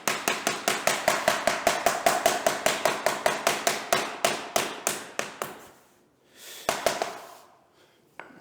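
Rapid even hammer taps on vinyl click plank flooring, about five or six a second for some five seconds, then two more taps a second or so later: the planks being tapped in so their click joints seat tight.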